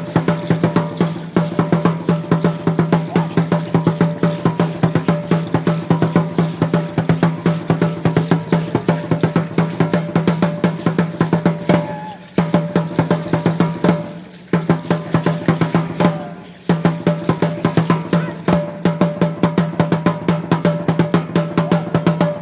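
Fast, steady drumming for an Aztec Chichimeca dance son, the strikes coming in a rapid roll with a few short breaks in the second half, stopping near the end.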